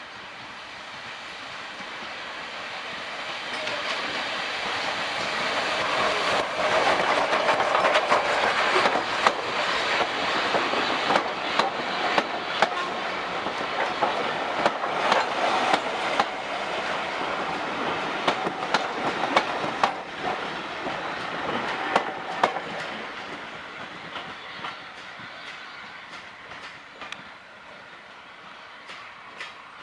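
A train passing by, growing louder, then fading away, with a run of sharp clicks in the middle as the wheels roll over the rail joints.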